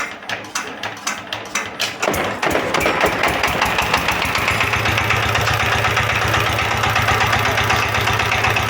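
Horizontal single-cylinder 20 hp diesel engine being hand-cranked, clicking at a quickening rate, then firing about two seconds in and running on steadily with a fast, even beat.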